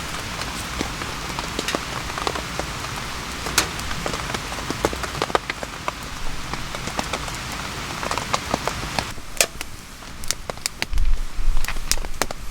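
Rain falling steadily, with many separate drops striking close by as sharp ticks. About nine seconds in the steady hiss thins, leaving clearer single drops, and near the end a loud low rumble comes in briefly.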